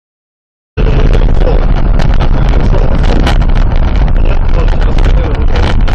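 Silence, then less than a second in a loud, rough rumble of vehicle noise and wind buffeting the microphone starts abruptly and runs on with crackling ticks.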